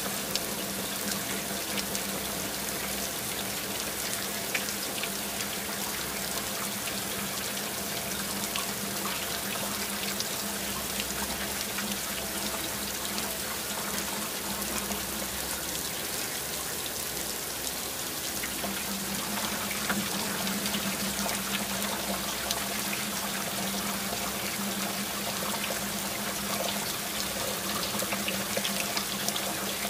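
Heavy rain falling: a steady hiss of water with many individual drops ticking, and water trickling. A steady low hum runs underneath and drops away for a few seconds midway.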